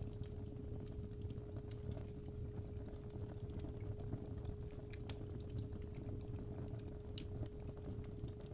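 Fireplace fire crackling with irregular sharp pops over a low rumble, under a steady 417 Hz tone.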